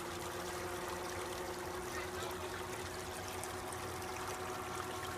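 Small creek water running with a steady trickle.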